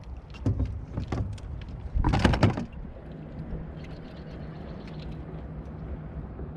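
Knocks and rattles of gear handled aboard a plastic kayak, the loudest a longer clatter about two seconds in, then a steady low hum for the rest.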